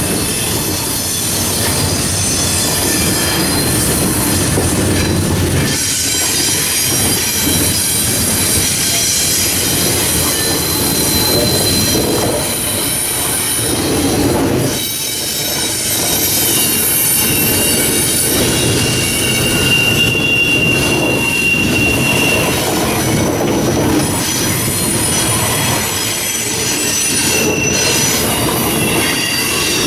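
Double-stack intermodal container well cars rolling past close by: a steady, loud rumble of steel wheels on rail, with thin high-pitched wheel squeals that come and go.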